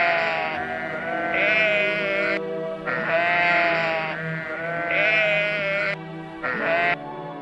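Sheep bleating repeatedly: five calls each lasting about a second, the last one short, over soft background music.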